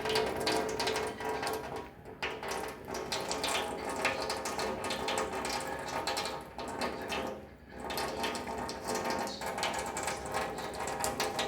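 Tap water running in a thin stream into a sink, a fast crackly patter with a steady ringing tone, while a cat drinks from the stream. The flow sound drops out briefly twice.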